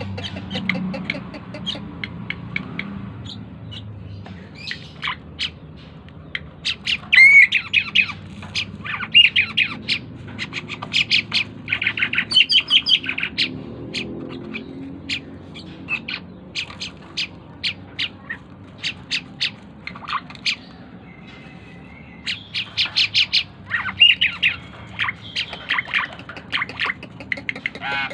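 Cucak keling (jalak keling) glossy starling singing hard: runs of sharp, rapid, metallic chips and squeaky whistled notes in quick clusters, with a brief lower warble about three quarters of the way through.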